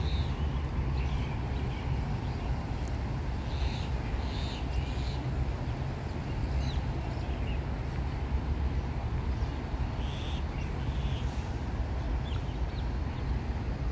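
Steady low outdoor rumble with short bird calls a few times, two close together about four seconds in and two more about ten seconds in.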